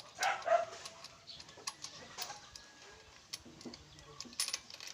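A dog gives two short yips or whines right at the start, followed by scattered light clicks and taps.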